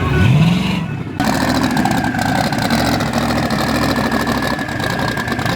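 Car engine revving up once, rising in pitch, then after a sudden cut about a second in, an engine idling steadily.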